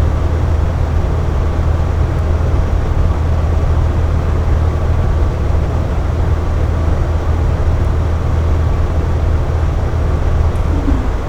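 Air conditioner running steadily: a constant low hum under an even whooshing rush of air, unchanging throughout.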